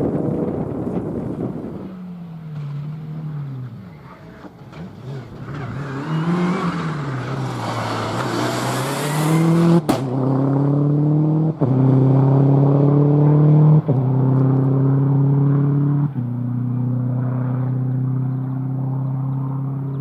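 Rally car engines at full stage pace. One car's note falls away early on. A second car approaches with a rising note and gives a sharp crack about halfway through, then accelerates hard, its engine note stepping down at three quick upshifts about two seconds apart.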